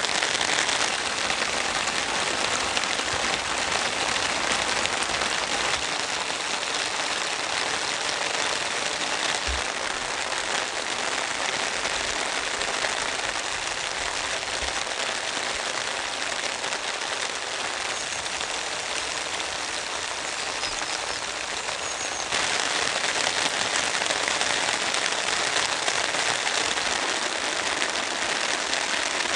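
Heavy rain falling steadily, with a few faint low knocks in the middle; the rain turns suddenly louder about two-thirds of the way through.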